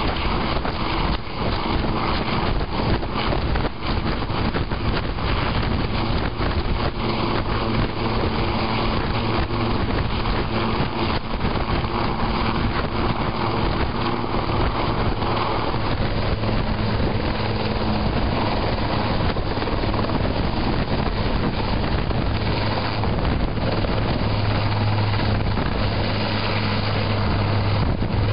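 Air ambulance helicopter's engine and rotors running steadily during takeoff, a dense whooshing noise over a low steady hum. The hum grows stronger near the end.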